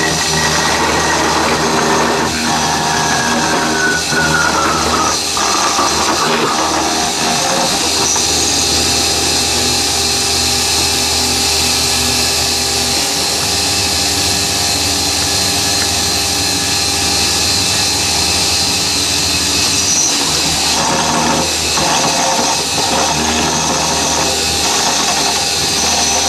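CNC mini mill cutting, its spindle motor running steadily as the end mill machines a profile through the stock, leaving holding tabs.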